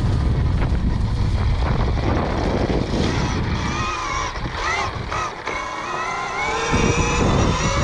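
Electric motor of a 2021 KTM Freeride E-XC dirt bike whining under way, its pitch rising and falling with the throttle. Wind rumble on the microphone is heavy in the first half, then eases.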